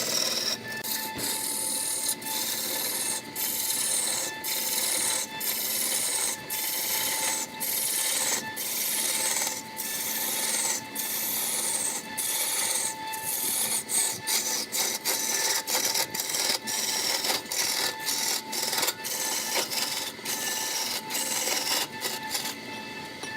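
Repeated scraping strokes of a tool on wood, about one a second and coming faster in the second half, each stroke a hiss that falls in pitch.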